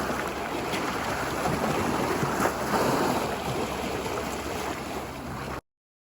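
Ocean waves washing ashore: a steady rushing surf that swells and eases, cutting off suddenly near the end.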